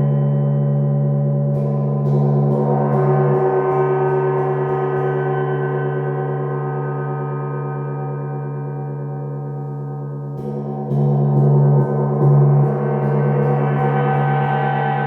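A gong struck twice, about nine seconds apart, each strike blooming into a long, swelling shimmer over a deep, sustained hum.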